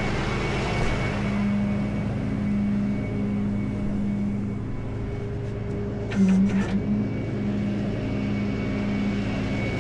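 Tow truck engine running with a steady low hum. About six seconds in, a short cluster of clicks and knocks rises briefly above it.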